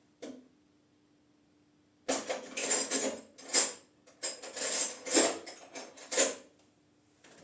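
Metal spanners clattering as they are rummaged through: a single knock near the start, then about four seconds of clinking and rattling metal on metal.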